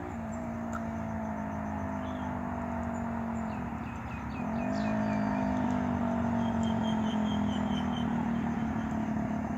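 A motor vehicle engine running with a steady hum; its pitch dips and then rises again about four seconds in. A few short high chirps sound over it partway through and again near the end.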